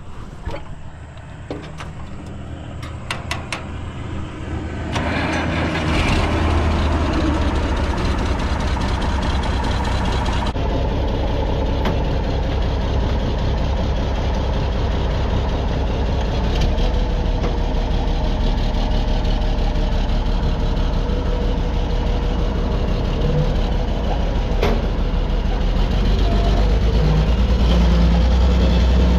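Tractor engine running steadily, with a few sharp clicks in the first seconds. It gets louder about five seconds in and again near the end.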